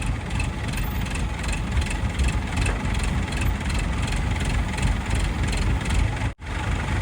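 Heavy diesel engine running close up, with a steady, regular clatter over a deep rumble. The sound breaks off for an instant about six seconds in and resumes.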